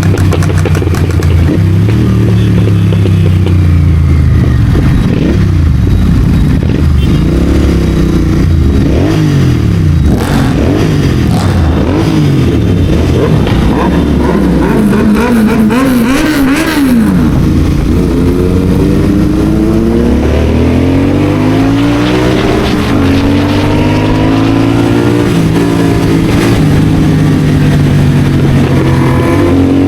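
Royal Enfield Continental GT650's parallel-twin with a Red Rooster aftermarket exhaust and CODE6 tune, running loud while riding. Its revs rise and fall again and again through the gears, with other engine notes crossing it around the middle.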